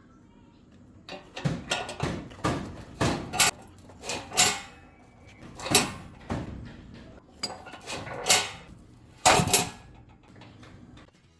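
Irregular metal clanks and knocks, like a welded steel door latch being slid and banged into place; the loudest strikes come about three, four and a half, eight and nine seconds in.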